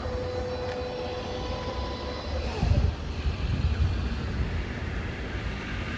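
Electric commuter train moving at a station platform: a steady motor whine that fades about two and a half seconds in, then a low rumble from the running gear for a second or two.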